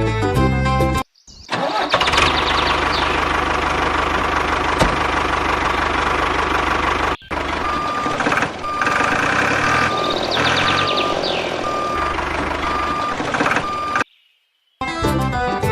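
A vehicle engine running, with a short break about seven seconds in. In the second half a reversing alarm beeps at a steady pace.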